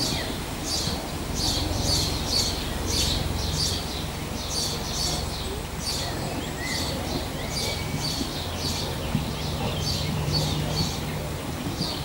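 Birds chirping, short high chirps repeating about twice a second, over a low steady hum.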